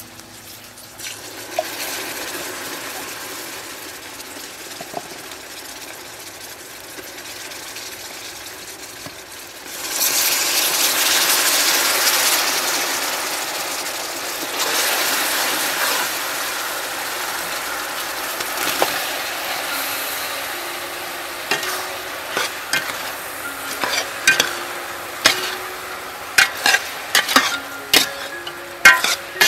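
Palm sugar caramel with garlic and galangal bubbling and sizzling in a metal pot. About ten seconds in, liquid seasonings hit the hot caramel and set off a sudden, louder hiss that slowly settles. Near the end a metal ladle stirs chunks of pork, clinking repeatedly against the pot.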